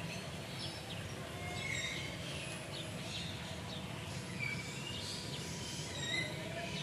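Birds chirping and calling on and off, many short high calls, over a steady low background noise.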